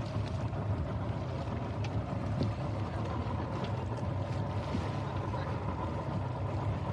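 A boat engine running at a steady low drone, with a hiss of wind and water over it.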